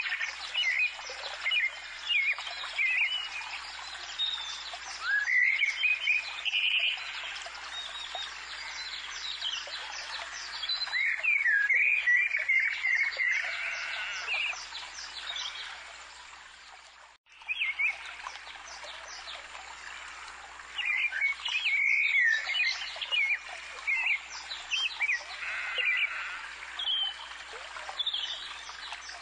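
Many small birds chirping and singing, quick overlapping calls over a light background hiss. The sound fades away just past halfway and comes back sharply.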